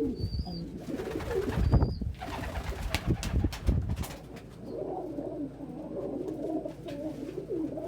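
Domestic pigeons cooing, a steady warbling coo in the second half. Before it come a few clicks and knocks and a couple of short high chirps.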